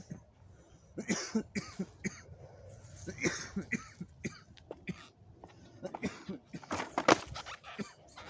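A person coughing in three bouts of short, harsh coughs, the loudest bout near the end.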